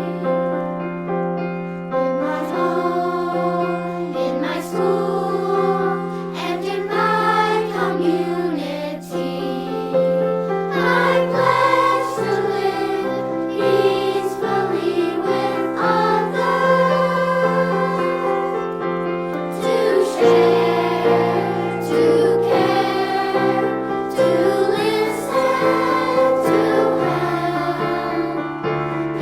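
A choir singing a song over an instrumental accompaniment with sustained bass notes that change every few seconds.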